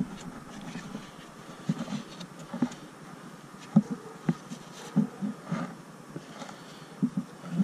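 Hands handling a cut-open engine oil filter: scattered light taps and knocks, irregular and about a second apart, with faint rustling between them.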